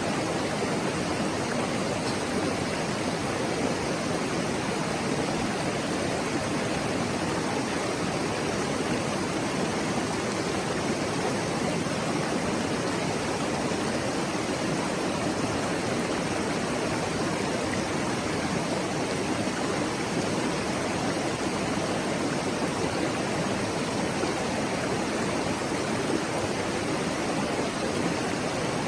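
A mountain stream running over rocks: a steady, unbroken rushing of water.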